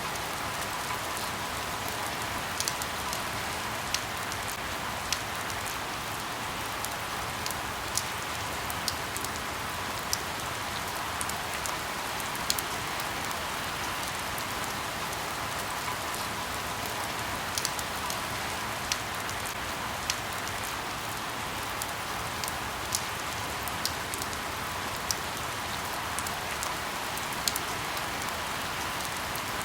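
Steady rain falling on leaves in a forest: an even hiss with frequent sharp ticks of single drops striking leaves.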